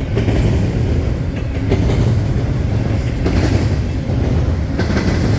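Freight train cars rolling past close by: a steady low rumble, with a few clacks of wheels over rail joints.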